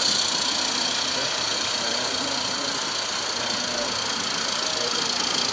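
16mm-scale live-steam garden locomotives running, a steady hiss of steam.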